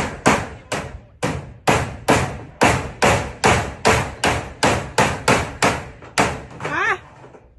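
A hammer nailing zinc roofing sheets, a fast run of ringing strikes at about three a second that stops about six seconds in. A brief voice-like call comes near the end.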